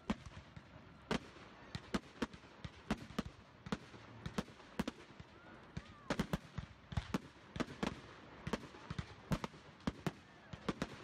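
Fireworks display: aerial shells bursting in a rapid, irregular string of sharp bangs and crackles, several a second.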